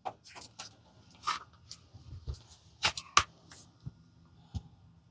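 Scattered light clicks and taps at an irregular pace: small objects being handled, kitchen tongs picking up pom-poms and dropping them into an egg tray.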